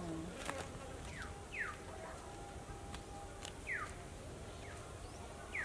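A bird calling: short chirps that fall quickly in pitch, repeated every second or two.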